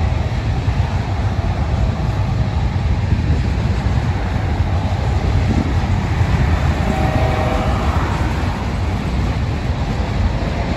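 Freight train's railcars rolling past: a steady rumble of tank cars, a boxcar and covered hoppers on the rails.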